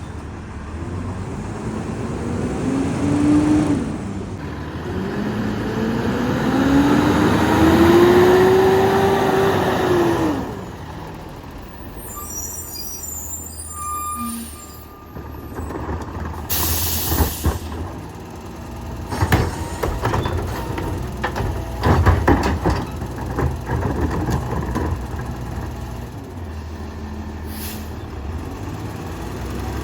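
Peterbilt 348 Loadmaster rear-loader garbage truck's diesel engine revving up twice, rising in pitch, as the packer runs. Partway through, an air brake hisses briefly, followed by a run of knocks and bangs.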